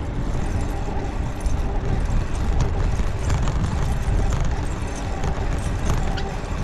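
Wind rumbling on the microphone with rolling road noise while riding a bicycle, with a steady low rumble throughout.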